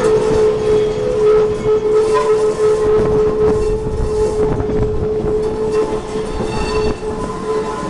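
Riding in an open-sided passenger car of a moving train: the steady rumble and rattle of the car and wheels on the track, with one steady tone held throughout.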